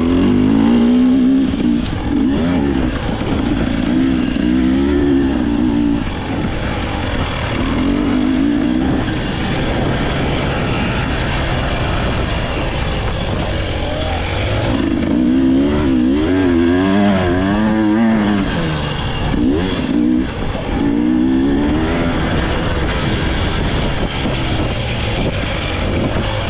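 Enduro dirt bike engine running hard, its revs rising and falling over and over, over a steady low rumble.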